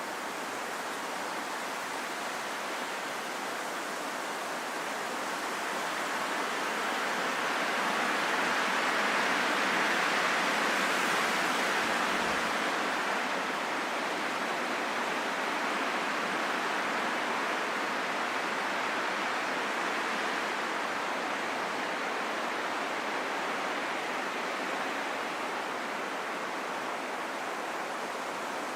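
Steady wind noise with no distinct gusts, swelling gradually to its strongest about ten seconds in, then easing back to a steady level.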